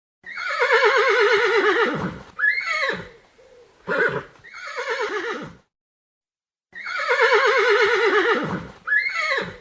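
Horse whinnying: a long, quavering neigh that falls in pitch, followed by a few shorter calls and another falling whinny. After a pause about six seconds in, the same sequence plays again.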